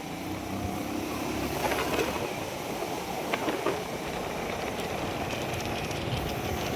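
A vehicle on the move over a rough road: steady engine and road noise, with a few knocks and rattles in the middle.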